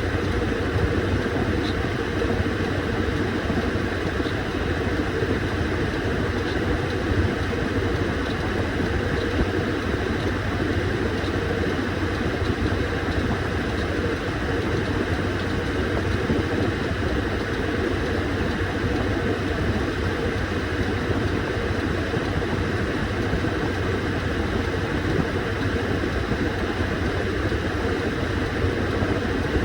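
Washing machine running steadily: a constant motor hum with an even churning noise over it.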